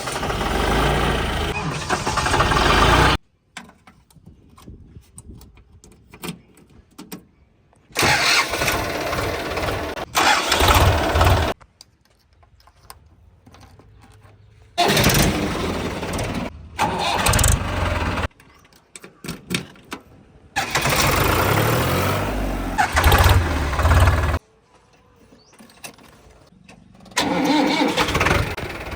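Tractor diesel engine running hard in loud stretches a few seconds long, each cutting off suddenly, with much quieter engine sound between them.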